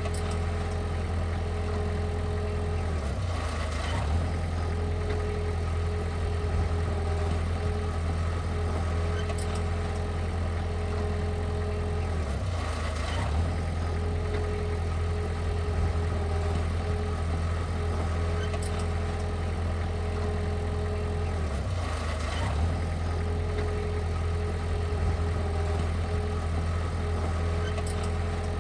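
Heavy-equipment engine running steadily, its low note briefly dipping about every nine seconds.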